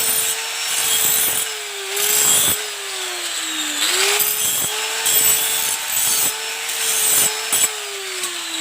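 Handheld electric power tool running and working a part with repeated rasping, rubbing strokes. Its motor pitch sags under load twice and slowly winds down near the end.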